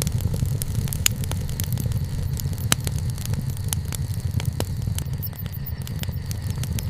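Wood bonfire burning, crackling with frequent sharp, irregular pops over a steady low rumble.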